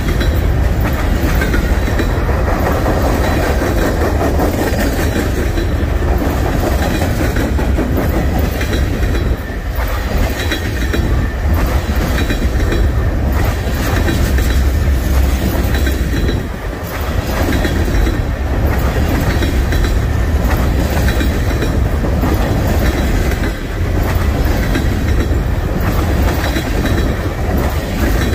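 Freight train cars rolling past, a steady heavy rumble of steel wheels on rail with clickety-clack from the rail joints.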